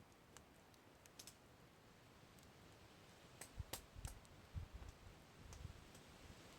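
Wood fire crackling softly: scattered sharp pops and snaps, with a denser run of louder pops and a few dull low thumps in the second half.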